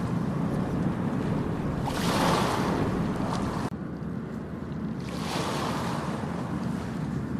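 Ocean waves washing onto a beach, with two surges of surf about two and five seconds in, over a steady low rumble of wind on the microphone.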